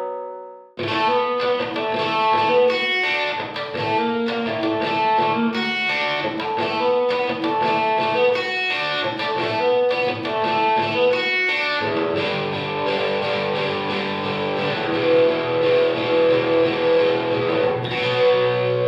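Electric guitar riff played through a reverb plugin, one of the presets being demonstrated. After a brief break it restarts with quick picked notes, then moves to held, ringing notes about twelve seconds in.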